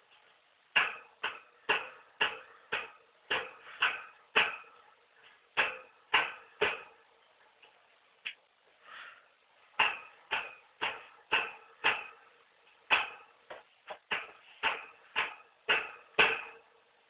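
A run of sharp, hollow taps, roughly two a second, pausing for a few seconds midway and then going on.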